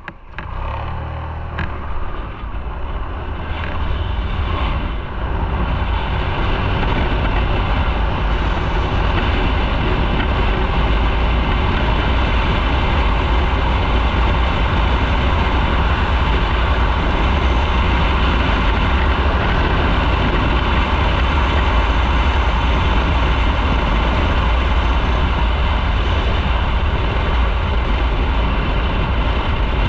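Motorcycle riding on the road, with its engine and wind noise on the microphone. The sound grows louder over the first few seconds as the bike picks up speed, then holds steady while cruising.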